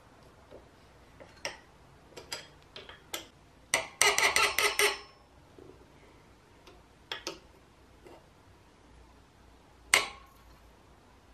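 Metal clicks and taps from bicycle parts and hand tools being handled, with a quick run of rapid ratcheting clicks lasting about a second, starting about four seconds in, and a single sharp knock near the end.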